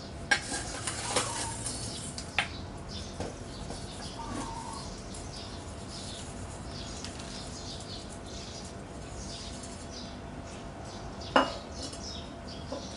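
A few sharp metallic clicks and clinks, like hand tools being handled or set down: one about a third of a second in, a couple more in the next two seconds, and the loudest a little past eleven seconds. Small birds chirp faintly in the background.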